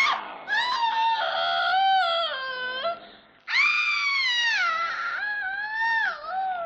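A dog howling and whining: a short cry at the start, then two long wavering howls, each sliding down in pitch, the second beginning about halfway through.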